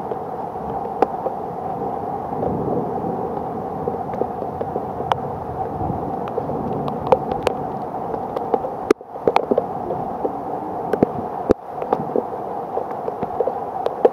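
Steady rain, with many sharp taps of single drops striking close by. The sound dips briefly twice in the second half.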